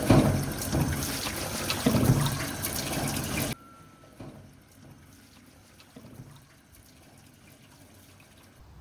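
Loud running water that cuts off suddenly about three and a half seconds in, leaving a quiet stretch with a few faint small knocks.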